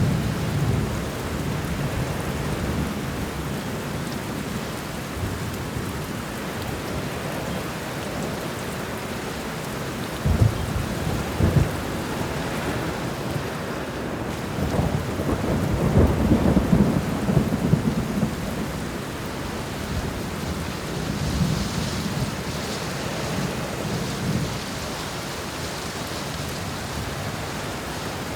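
Steady heavy rain hissing, with rolls of thunder: a rumble at the start, two sharp cracks about ten seconds in, the loudest long rumble a few seconds later, and a softer roll after that.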